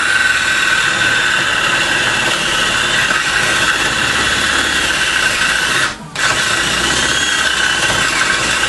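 Power drill boring through wood with a large bit, running steadily with a high whine. It stops briefly about six seconds in, then runs again.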